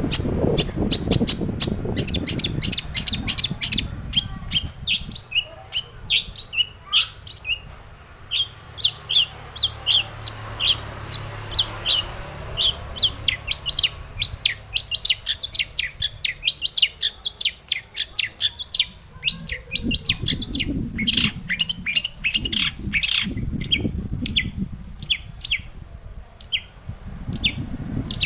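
Long-tailed shrike singing a fast run of short, sharp chirping notes in a long unbroken sequence. A low rumble sits beneath the song at the start and again over the last third.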